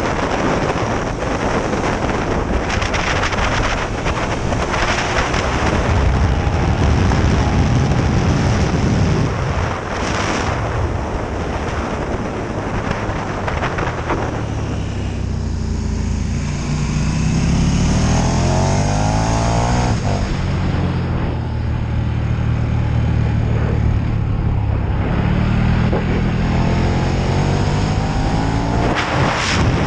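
KTM 1290 Super Duke R's V-twin engine at track speed, rising in pitch as it accelerates through the gears and dropping back between pulls, with heavy wind noise on the onboard microphone.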